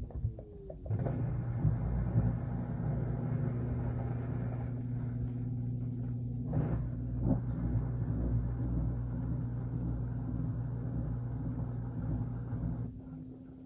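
Washing machine running: a steady mechanical hum that starts about a second in and drops away near the end, leaving a fainter hum.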